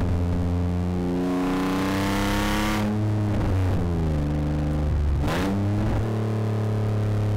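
Rally car engine under hard acceleration, its pitch climbing for about two seconds, then cutting off sharply about three seconds in. The pitch then falls as the car comes off the throttle, breaks briefly again a little after five seconds, and runs on at a steadier speed.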